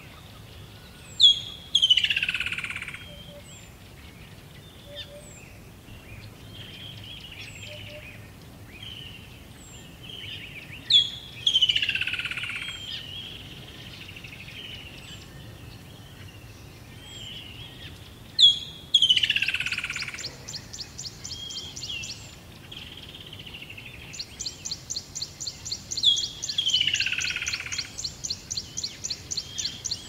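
Wild birds calling and singing: a loud call that starts on a sharp high note and sweeps steeply down, repeated four times about seven seconds apart, over softer warbling phrases. Near the end a fast, even, high-pitched trill of about four pulses a second sets in.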